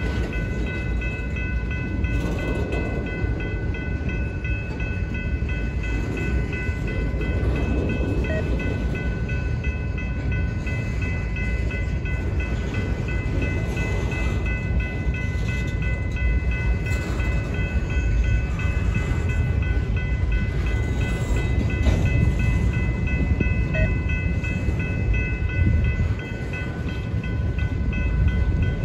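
Freight train of tank cars and covered hoppers rolling past at steady speed: a continuous rumble of steel wheels on rail, with steady high ringing tones over it.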